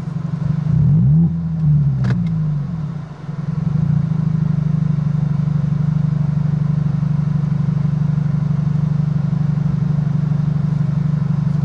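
Car engine and road noise heard from inside the vehicle: the engine's pitch rises and falls a couple of times with a single click about two seconds in, then it settles into a steady low drone.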